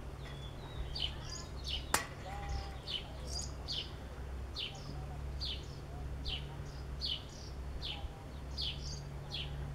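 A small bird chirping over and over, short falling chirps about twice a second, over a low steady hum. A single sharp click about two seconds in.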